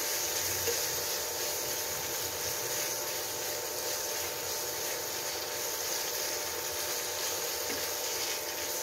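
Onions and chicken sizzling steadily in butter and bacon fat in a nonstick pan while being stirred with a silicone spatula.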